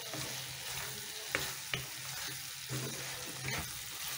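Chicken pieces sizzling in oil in a kadai while a wooden spatula stirs them. The spatula knocks sharply against the pan three times.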